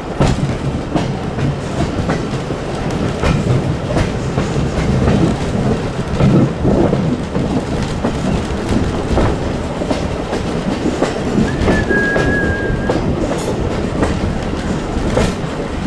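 Heritage railway carriage running along the track, heard from on board: a steady rumble of the wheels with clicks over the rail joints. A brief high tone sounds about twelve seconds in.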